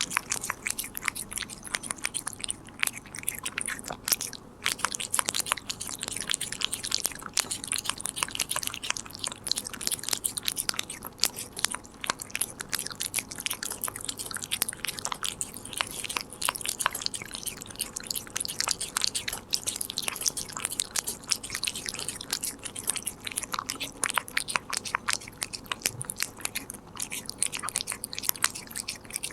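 Korean shorthair cat chewing a treat: rapid, dense bites and crunching clicks that go on without a break.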